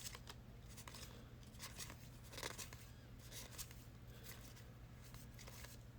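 Faint scattered rustles and clicks of trading cards being handled and flipped, over a low steady hum.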